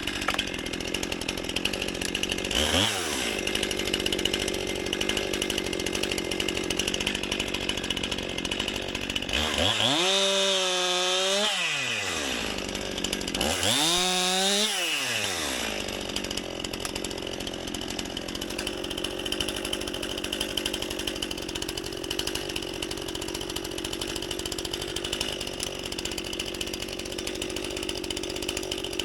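Two-stroke chainsaw running, with its engine revved up to high pitch and back three times: briefly about three seconds in, then twice more for a couple of seconds each around the middle.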